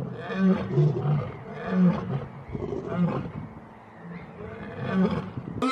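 A large animal's deep calls, about six of them at uneven intervals, each a short low pitched sound with overtones. At the very end the sound cuts abruptly to a different, sliding call.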